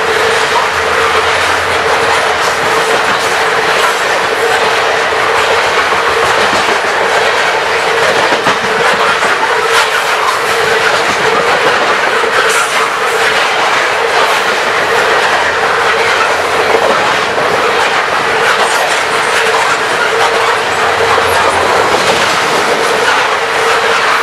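Loaded coal cars of a Canadian Pacific coal train rolling past close by: a loud, steady rumble and clatter of steel wheels on the rails, with a steady ringing tone under it.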